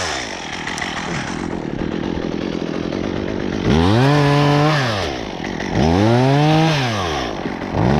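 Gas chainsaw idling, then revved up twice for about a second and a half each, dropping back to idle between, with a third rev starting near the end.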